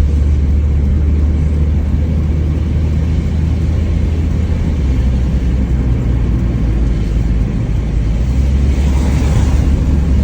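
Inside a moving Mitsubishi Lancer, a steady low rumble of engine and road noise as the car is driven along. About nine seconds in, a brief hiss rises over it.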